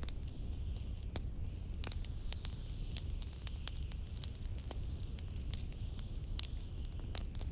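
Wood fire crackling with many irregular sharp pops, over a steady low rumble of blizzard wind.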